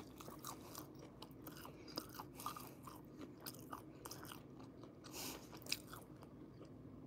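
A person chewing a mouthful of pasta in cream sauce close to the microphone, with small mouth clicks and smacks; the chewing goes quiet near the end.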